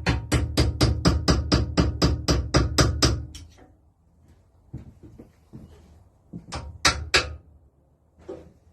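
Rapid metal taps, about five a second, knocking a valve rod out of a Lister D stationary engine. They stop after about three seconds, and three more knocks come close together near the end.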